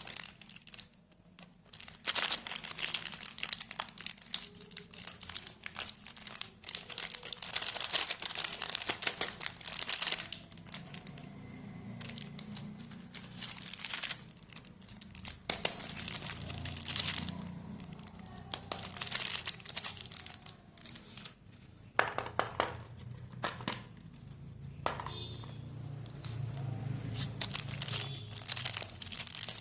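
Plastic candy and chocolate wrappers crinkling and tearing as they are handled and opened, in irregular spells with short pauses.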